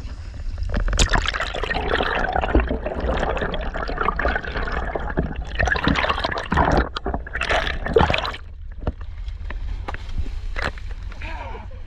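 Water splashing and churning hard for several seconds, easing off near the end, over a steady low hum from the boat's engine.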